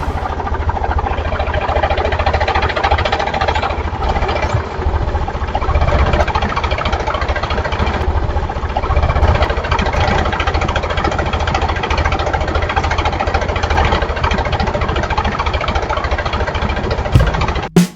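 Tractor engine running steadily with a rapid low chugging, cutting off suddenly near the end.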